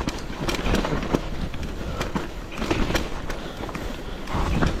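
Bicycle rattling over a rough, rocky descent: a steady rumble of tyres on loose ground with many sharp knocks and clacks from the bike.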